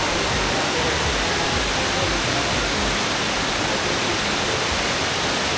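Waterfall rushing: a steady, loud roar of falling water from Triplet Falls' cascades, heard close by.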